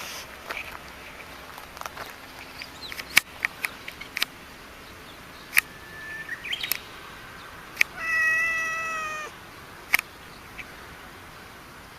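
Domestic cat meowing: one drawn-out meow about eight seconds in, falling slightly in pitch, with several sharp clicks or taps scattered through the rest.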